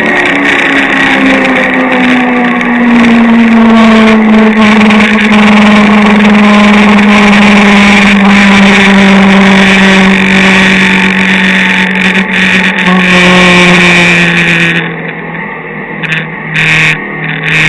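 Kawasaki GPZ900R's inline-four engine running hard at high speed under wind rush, its note sagging slowly. About fifteen seconds in the throttle closes and the sound falls away, with a few short bursts of sound near the end.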